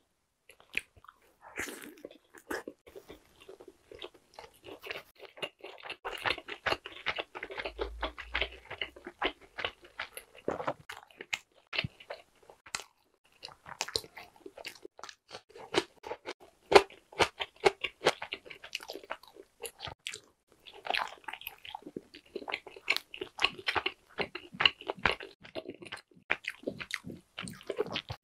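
A person biting into and chewing crispy pan-dough pepperoni pizza and barbecue chicken close to the microphone, with many sharp, irregular crunches and wet mouth sounds.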